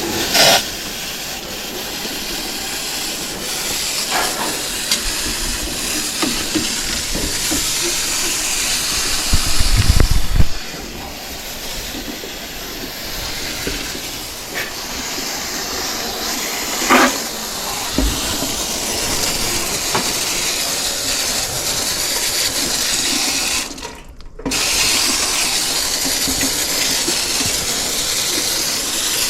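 Hose spray washing out the condenser coils of an air conditioner from the inside: a steady hiss of water spray on the coil fins, cut off briefly a few seconds before the end.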